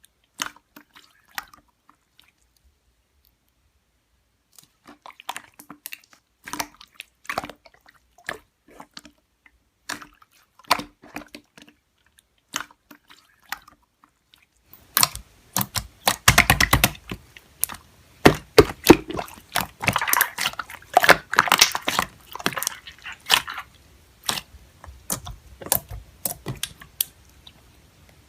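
Slime being handled by hand: scattered soft sticky clicks and pops at first, then from about halfway through a dense run of crackling, squishy pops as the slime is worked.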